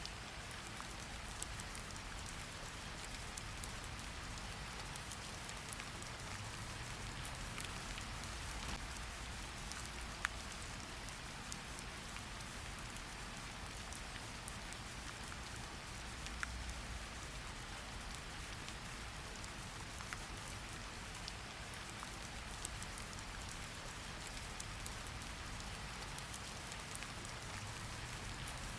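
Steady rain falling, an even hiss with scattered sharper drips and ticks of drops striking a surface, over a faint low rumble.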